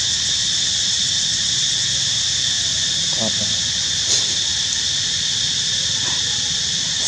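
Steady, high-pitched insect chorus drone, with a brief click about four seconds in.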